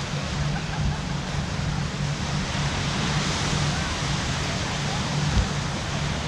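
Steady outdoor background noise, an even wash with a low hum beneath and faint voices, broken by a single low thump about five seconds in.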